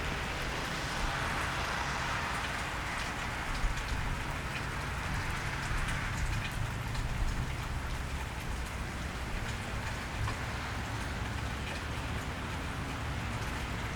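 Steady cold rain falling on a wet street, with many scattered drops ticking sharply on surfaces and a low steady rumble underneath. A wider hiss swells and fades away over the first half.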